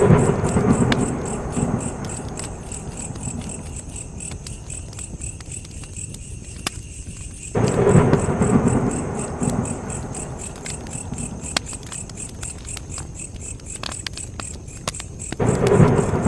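Campfire crackling with scattered sharp pops, over a steady high chirring of crickets. Three deep rumbles, about eight seconds apart, swell up suddenly and die away slowly.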